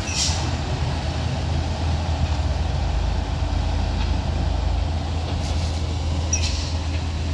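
Large vehicle's engine running with a steady low drone, with a few short hisses about two thirds of the way through.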